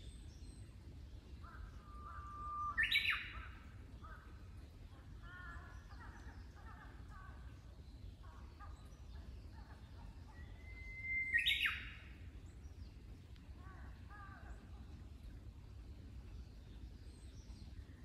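A songbird singing twice, about eight seconds apart. Each song is a held whistled note that breaks into a louder, quick higher phrase. Softer chirping comes in between.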